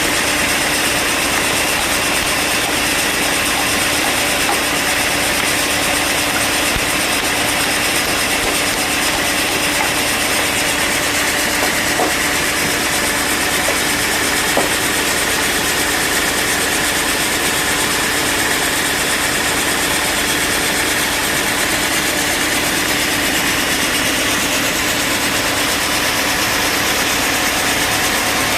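Bandsaw sawmill running steadily: a continuous machine drone with constant humming tones, and a couple of faint knocks about halfway through.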